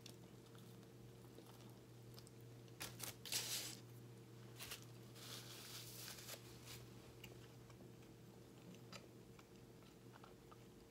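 Close-miked mouth sounds of a person eating a bagel breakfast sandwich: a few sharp bites and crunches about three seconds in, then softer wet chewing. A faint steady hum runs underneath.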